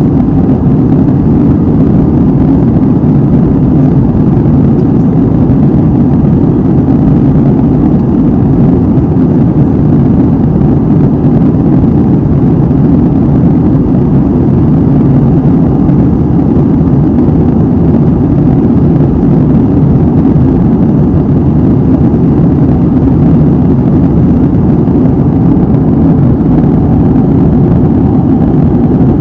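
Airliner cabin noise in flight, heard from a window seat: a steady, even rush of engine and airflow noise, strongest in the low range, with no change throughout.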